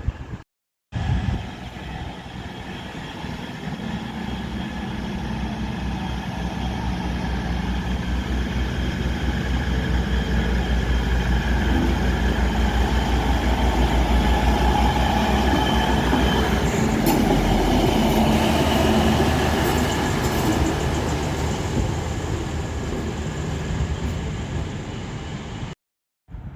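Eight-car passenger train made of two four-car sets running past along the station, its motors humming and wheels clattering, growing louder to a peak in the middle and then fading away. The sound drops out briefly just after the start and again near the end.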